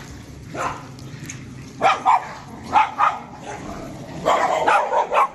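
Dogs barking in short, sharp barks: one about half a second in, pairs around two and three seconds, and a busier run of barks in the last second.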